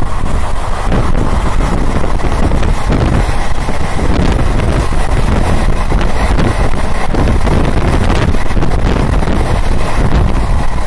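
Loud, steady wind noise buffeting the microphone at an open train window, over the running noise of the moving train on its rails.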